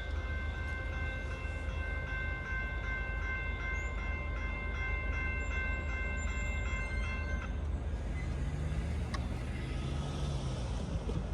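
Train horn sounding one long steady blast that cuts off about seven seconds in, over the continuous low rumble of the train.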